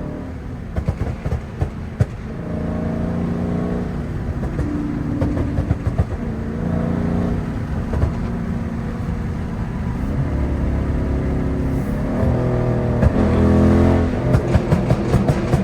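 A tuned Dodge Charger Daytona V8 exhaust pulling through the gears, rising in pitch and dropping back several times. Short sharp crackles come around the first couple of seconds and again near the end.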